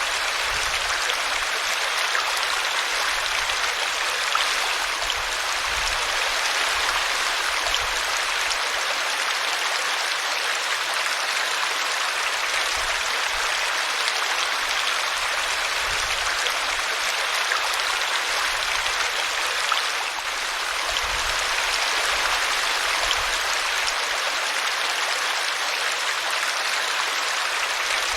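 Small brook flowing over a tree root: a steady, even rush of water.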